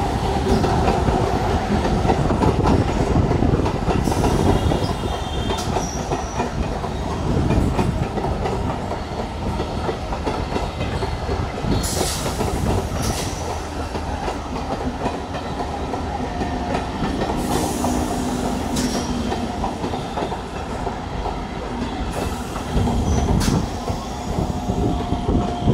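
Electric multiple-unit local train rolling past, its coaches' wheels clattering over the rail joints in a steady, continuous rumble.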